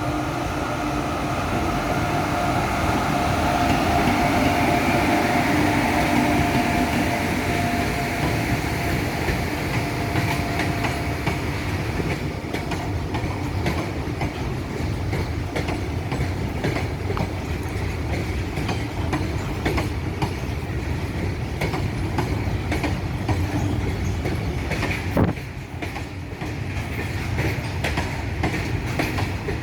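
Freight train of bogie open wagons running past, its wheels clattering over the rail joints in a steady rhythm. A steady high tone sounds over the rumble for about the first twelve seconds. One sharp bang comes about 25 seconds in.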